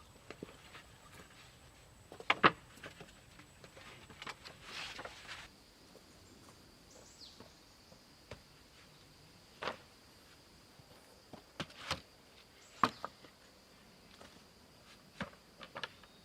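Scattered sharp knocks and clicks of wood being handled, with a brief rustle about five seconds in, over a faint steady high-pitched insect drone.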